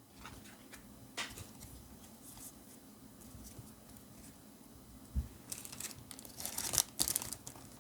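Foil wrapper of a Pokémon booster pack being handled, then torn open and crinkled in a cluster of tearing rustles that starts about five and a half seconds in.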